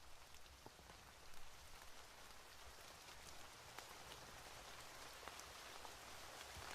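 Faint steady rain, an even hiss with scattered small sharp ticks of drops or crackles.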